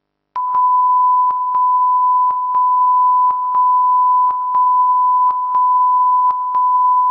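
Steady 1 kHz line-up test tone, as recorded at the head of a broadcast tape, broken by a pair of short clicks with a slight drop in level about once a second; it cuts off suddenly at the end.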